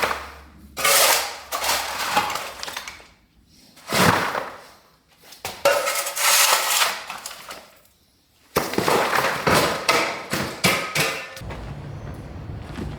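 Demolition rubble and debris being handled, with repeated bursts of clattering, scraping and clanking knocks. A low steady hum comes in near the end.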